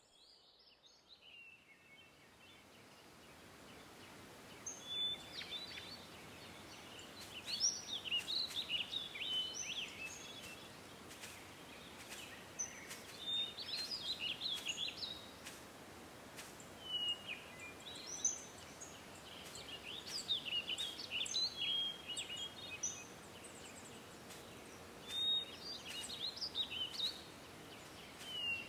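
Songbirds singing, with short chirping and trilling phrases that recur every few seconds over a steady hiss of outdoor ambience. The sound fades in over the first few seconds.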